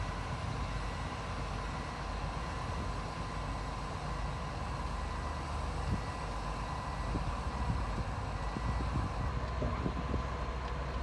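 Heavy earthmoving machine's diesel engine running steadily, with a few light knocks.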